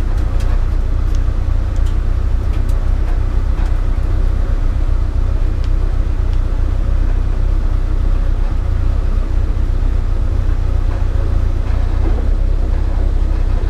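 Datsun P610 rally car driving: a steady, heavy low rumble of engine and road noise, with a few sharp clicks in the first few seconds.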